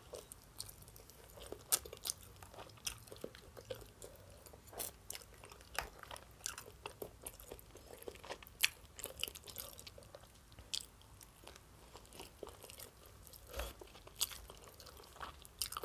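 A person chewing roast chicken leg with her mouth, a bite and then irregular small clicks and crunches of chewing.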